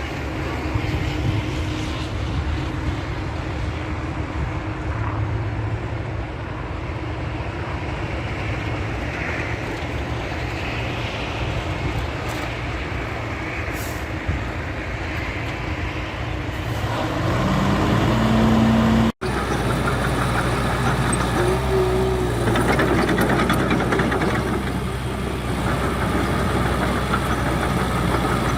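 Heavy diesel engines of earthmoving machinery running steadily under work. The engine note rises as one revs up past the middle, then an abrupt cut switches to another engine running.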